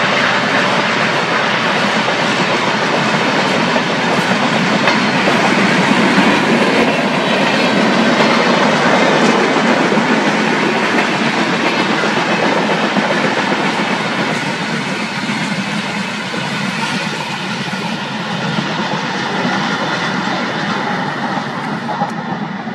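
Passenger coaches of an express train rolling past close by, a steady noise of wheels running on the track that eases off somewhat over the second half.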